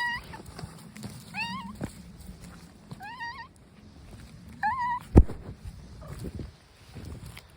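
A cat meowing repeatedly: short, wavering calls about every second and a half. A single sharp knock sounds about five seconds in.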